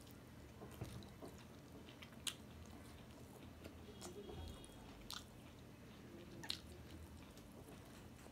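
Faint chewing of a mouthful of rice and duck curry eaten by hand, with four short, sharp mouth clicks or smacks spread through it.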